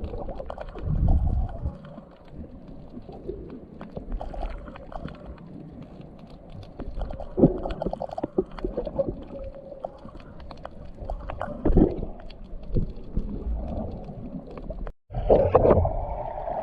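Muffled underwater sound picked up by a camera while snorkelling: gurgling water and bubbles, low rumbles and scattered knocks. About fifteen seconds in the sound cuts out briefly and a steadier sound takes over.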